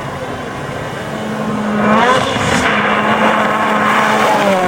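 Rally car engine running hard and getting louder as it approaches, its note climbing about two seconds in and dropping near the end.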